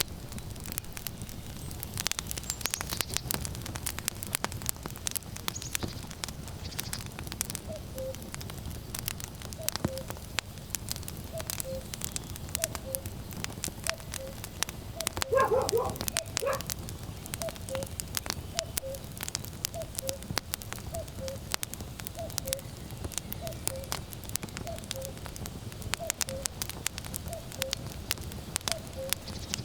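Wood fire crackling with frequent sharp pops over a low rumble. From about eight seconds in, a common cuckoo repeats its falling two-note call over and over. About halfway through, a dog gives a short bark, the loudest sound here.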